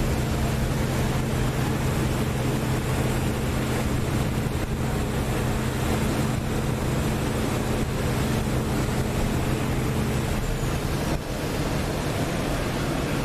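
Passenger boat under way on a lake: a steady low engine hum under wind and water noise. The engine hum drops away about ten seconds in, leaving the wind and water.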